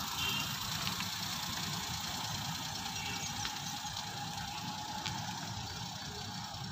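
Small car's three-cylinder petrol engine running at low revs as the Maruti Suzuki Alto reverses slowly, fading slightly as it moves away.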